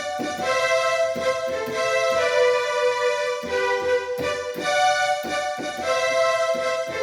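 Yamaha PSR-530 electronic keyboard playing a slow melody of held notes in one of its sustained preset voices, the tone rich and reedy, each note starting with a short attack.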